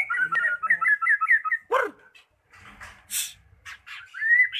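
White-rumped shama (murai batu) singing: a fast run of whistled notes, then a sharp downward-sweeping note, a short harsh hissing note with a few clicks, and a new whistled phrase near the end.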